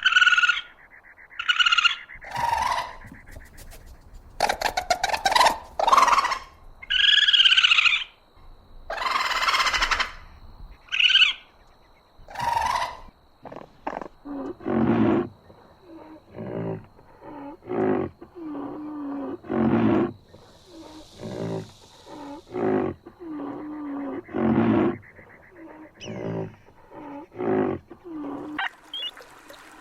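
Animal calls: a string of high-pitched cries, then from about halfway a series of shorter, lower calls repeating about once or twice a second.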